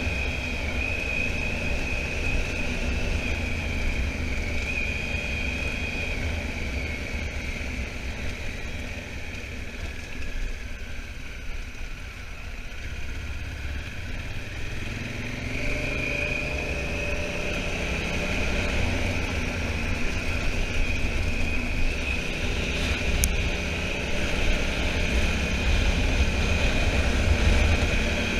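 Honda Africa Twin twin-cylinder motorcycle being ridden, with a heavy wind rumble on the microphone. The engine eases off a little before the halfway point, then its note rises as it accelerates and grows louder toward the end, with a single sharp click about two-thirds in.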